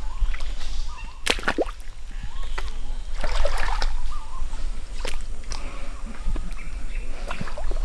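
Boots wading slowly through shallow water, sloshing and splashing with each step, with a few sharp knocks in between.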